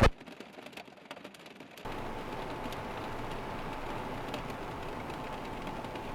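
Steady rushing noise of a snowstorm, wet snow and wind, setting in about two seconds in after a quieter stretch of faint ticks.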